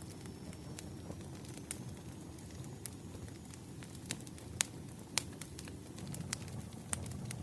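Wood fire crackling: scattered sharp pops and snaps of burning firewood over a low, steady rumble of the flames, with the loudest pops about four and a half and five seconds in.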